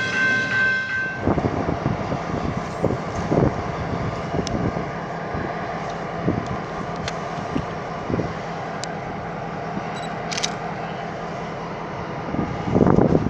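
A train horn chord cuts off about a second in. It is followed by steady rumbling with scattered clicks and knocks, typical of train traffic.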